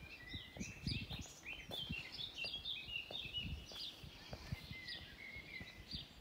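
Songbirds singing in woodland, a busy run of quick chirps and short trills that thins out near the end, over soft low thumps.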